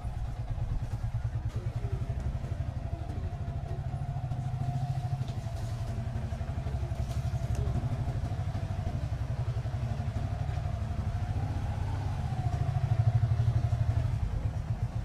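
Motorcycle engine running steadily under way, heard from on the bike, with a low pulsing note and a faint steady whine above it. It gets louder for a couple of seconds near the end as the engine picks up.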